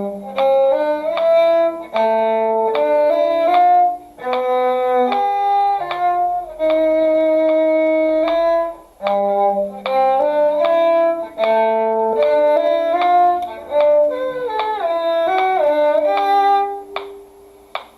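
Violin playing the first eight measures of a slow, lilting string duet, with a lower second part moving alongside, in short phrases that stop near the end.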